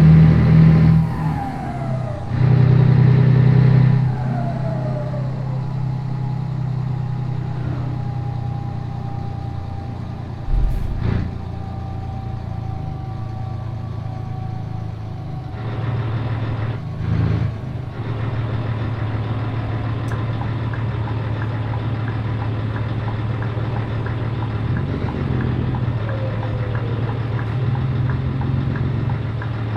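Scania 113 truck's 11-litre straight-six diesel running steadily on the road, growing louder for a few seconds a couple of times, with a single knock about ten seconds in.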